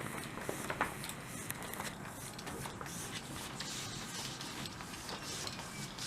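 Steady rain with many small irregular ticks of drops striking a roof.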